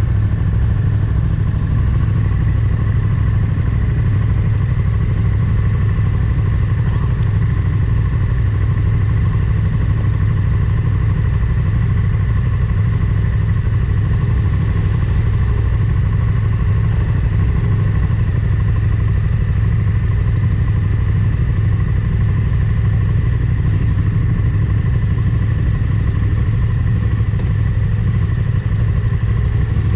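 Motorcycle running steadily under way at an even speed, a constant low rumble with no change in pitch.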